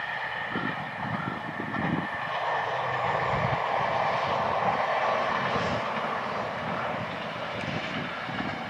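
Kyoto Tango Railway single-car diesel railcar passing by, a broad steady rush of engine and wheels that grows louder toward the middle and eases off near the end.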